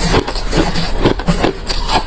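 Close-miked chewing of refrozen crushed ice: hard, crunchy bites coming rapidly and unevenly, about four crunches a second.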